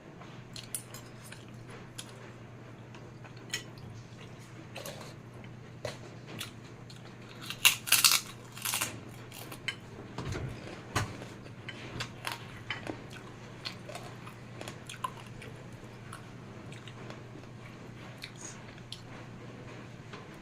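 Close-up eating of spicy fried noodles: chewing, with scattered sharp clicks of cutlery on the plate and a louder cluster of crunching about eight seconds in, over a faint steady low hum.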